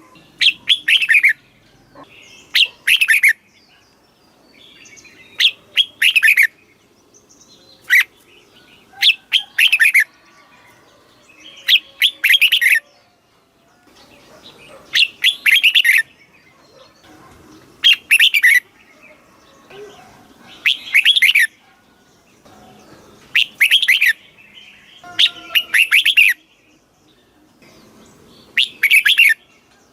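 Red-whiskered bulbul singing: loud, short phrases of quick whistled notes that slide downward in pitch, repeated about a dozen times, every two to three seconds.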